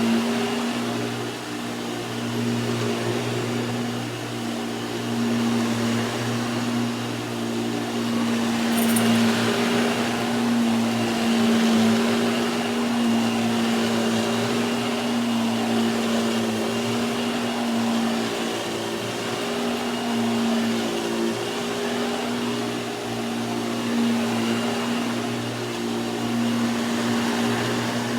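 Hoover WindTunnel 2 upright vacuum cleaner running on carpet: a steady motor hum with rushing air, swelling and dipping slightly in loudness.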